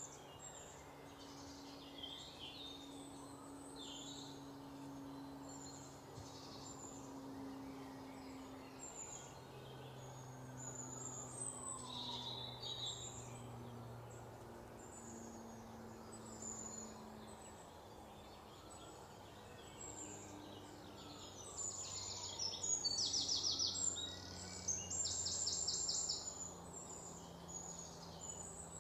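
Wild birds chirping and calling in forest ambience, with two louder runs of rapid, evenly repeated high notes near the end, over a faint low hum.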